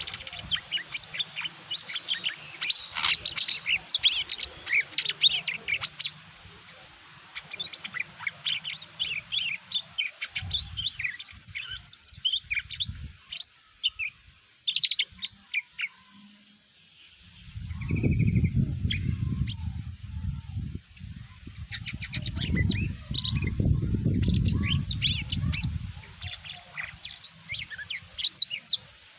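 Green leafbird (cucak ijo) singing a fast, varied run of sharp high chirps and whistled notes, breaking off briefly about halfway through. A low rumble runs underneath for several seconds in the second half.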